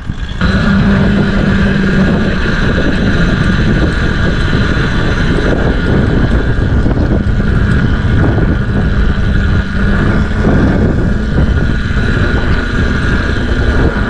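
Mini bike engine running steadily while riding, with wind buffeting the microphone.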